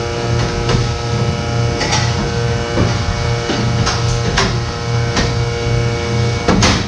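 Steady hum of milking parlour machinery, with a low throb pulsing slightly faster than once a second and scattered sharp clicks.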